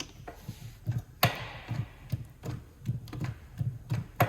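Light, irregular knocks and taps of a tool or part being handled, with a sharp click about a second in and another near the end.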